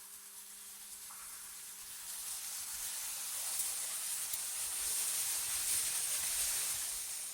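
AI-generated wind ambience: a hissing rush of air that builds to its loudest about five to six seconds in, then falls away near the end.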